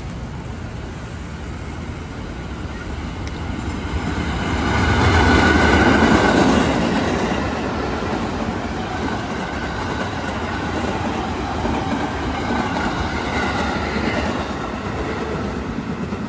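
KRL Commuter Line electric commuter train passing close by on the rails. The sound swells to its loudest about five seconds in, then runs on steadily as the carriages go past.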